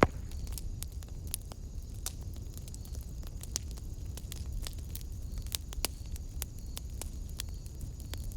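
Wood fire burning in a fireplace: irregular crackles and pops over a steady low rumble of flames, with one sharp loud pop right at the start.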